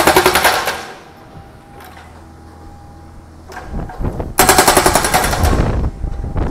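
Hydraulic breaker on a Kubota U50-5S mini excavator hammering an old engine block in two bursts of rapid blows: one for about the first second, another of about a second and a half starting about four and a half seconds in. Between them the excavator's diesel engine runs steadily, rising just before the second burst.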